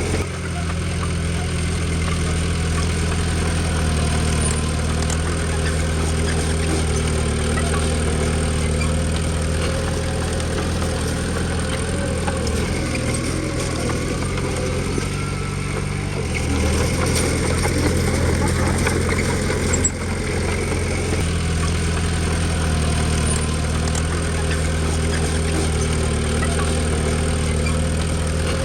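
Diesel engine of a Komatsu D20P bulldozer running steadily at a low, even note, which shifts briefly about two-thirds of the way through.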